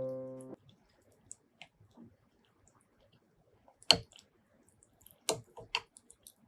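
Piano music ends about half a second in; then close-miked eating sounds follow as faint scattered clicks, with a sharp click about four seconds in and two more near the end.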